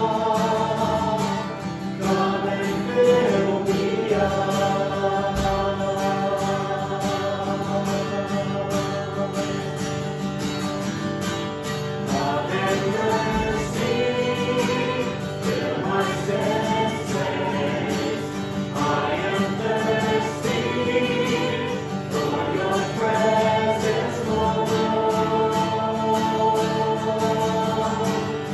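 Church worship music: a band with guitar playing a slow worship song while a group of voices sings along.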